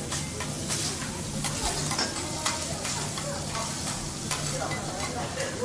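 Food sizzling on a teppanyaki hot plate, with frequent short clicks and scrapes of metal spatulas working on the griddle.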